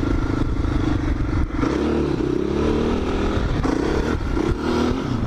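Quad (ATV) engine running under throttle while riding, its pitch shifting up and down as the rider works the throttle, with a change in the engine note about a second and a half in.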